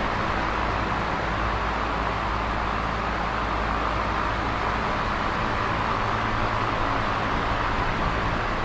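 Electric fan running steadily: an even rush of moving air with a low motor hum beneath it.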